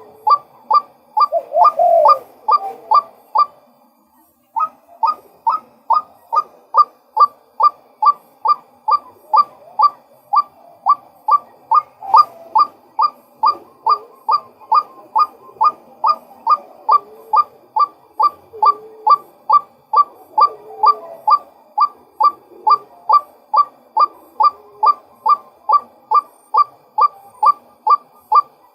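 Male white-breasted waterhen calling: a long, monotonous series of short, evenly repeated notes, about two a second. It breaks off for a moment about three seconds in, then carries on.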